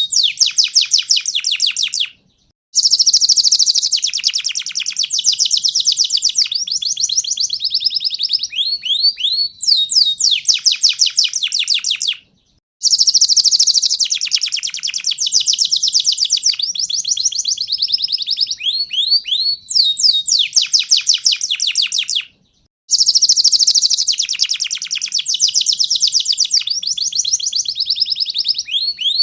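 Domestic canary of the panda colour variety singing loud, continuous song: fast trills and rolling whistled phrases, high-pitched. The same song sequence repeats about every ten seconds, each time after a brief break.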